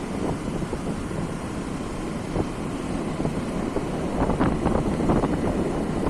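Wind buffeting the microphone, with a vehicle running underneath.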